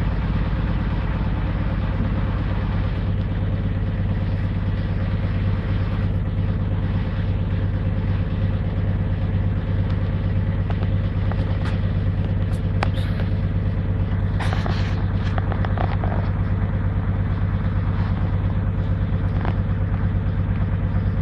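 Servis Gem M310 washing machine in its first spin, the drum turning steadily with a constant low hum, a bit quiet.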